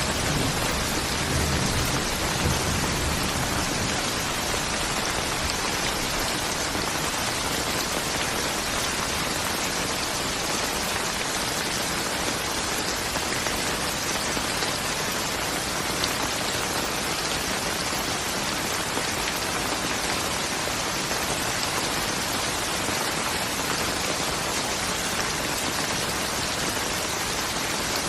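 Steady, even rain pouring down, a constant hiss with no breaks. A low rumble of thunder dies away in the first few seconds.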